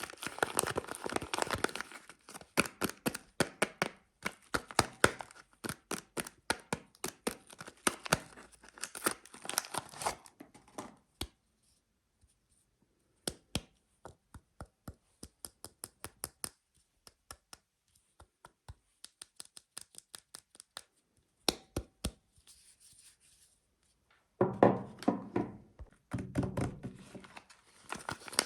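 Soap packaging crinkled and torn open, then a long run of sparse, sharp light taps, with dense crinkling and tearing of the wrapper returning near the end.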